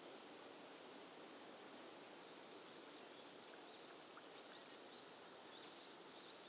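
Faint outdoor background hiss with a small bird's faint high chirps repeating from about two seconds in.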